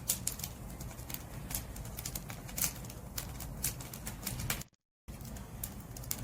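Wood fire crackling and popping at irregular intervals over a low, steady rumble of flames. The sound cuts out completely for about a third of a second, roughly three quarters of the way in, then resumes.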